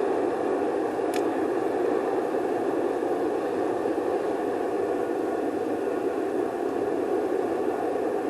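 Wood campfire burning: a steady rushing noise with a single sharp crackle about a second in.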